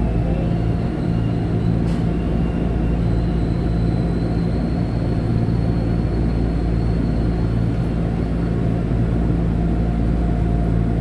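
Cabin noise of a Seoul Subway Line 1 electric commuter train rolling slowly along a station platform as it draws to a stop: a steady low hum and rumble with faint high whines. There is one short click about two seconds in.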